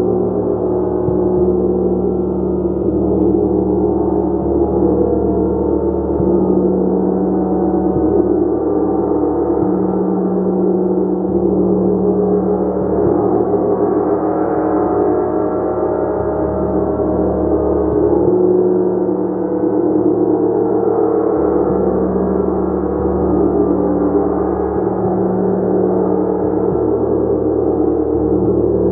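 Gong played continuously in a sustained, swelling wash of many overlapping tones, rich in the low and middle range with a steady deep hum, with no distinct strikes standing out.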